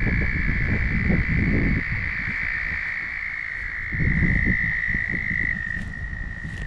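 Frogs calling in one long, steady high trill that runs without a break, its pitch stepping slightly lower about five and a half seconds in, over a low rumble.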